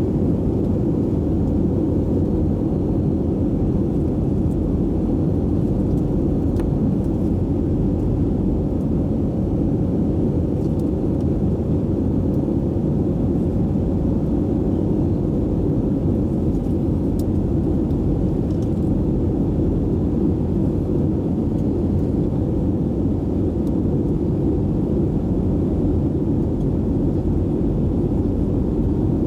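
Steady low rumble of cabin noise inside an Airbus A320 airliner in flight, with a faint steady hum running through it.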